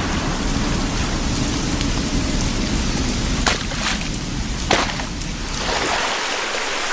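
Steady heavy rain with a couple of sharp cracks of thunder in the middle.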